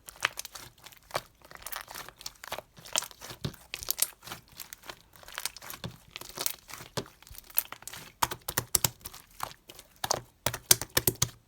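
Crinkling and crackling of something being crumpled or torn, a dense run of irregular sharp clicks that grows louder near the end.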